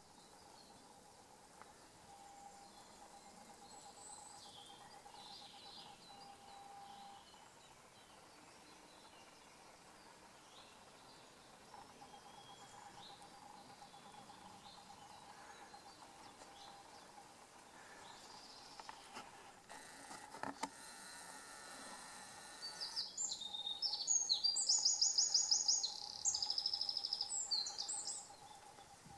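Quiet outdoor background with scattered faint bird calls and a thin steady tone, then a songbird singing a few loud, rapid, high-pitched trilled phrases near the end, the loudest sound.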